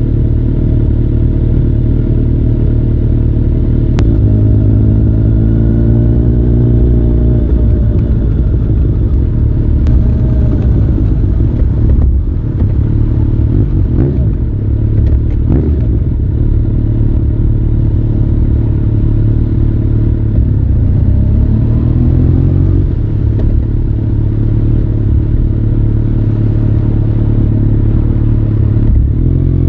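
Kawasaki ZRX1200 DAEG's inline-four engine running through a Nojima aftermarket exhaust, a steady deep exhaust note. Engine speed rises about four seconds in and again a little past twenty seconds, with brief changes in between.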